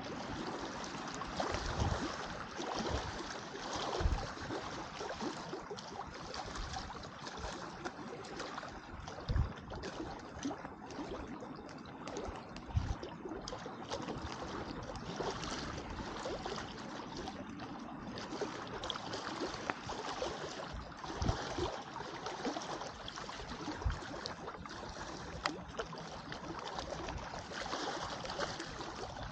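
Wood campfire crackling, with many small sharp pops scattered throughout, over a steady wash of lake water lapping.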